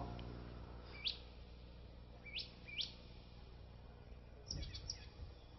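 A small bird chirping in the background: three short, faint upward chirps about a second, two and a half and three seconds in, over a steady low hum, with a faint rustle near the end.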